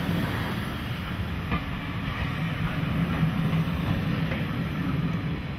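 Passenger coaches of a passing train rolling by close to the track, a steady rumble of wheels on rails with a few faint clicks as the wheels cross rail joints.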